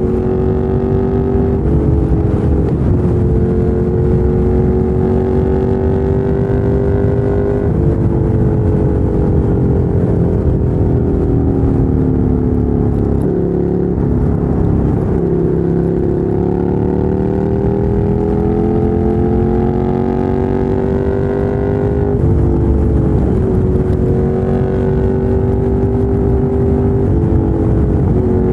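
Ducati Monster 797's air-cooled L-twin through a LeoVince LV-10 exhaust, under way: the engine note climbs and drops sharply at each upshift. About a third of the way in it eases off and falls in pitch through a couple of downshifts, then pulls up through the gears again.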